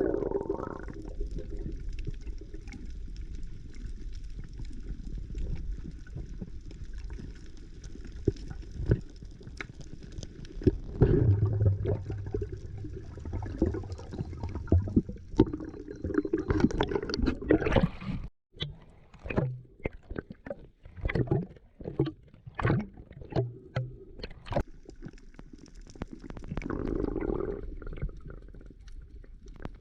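Sea water sloshing and gurgling around a camera in the water, muffled. In the second half it turns into a run of short, separate splashes.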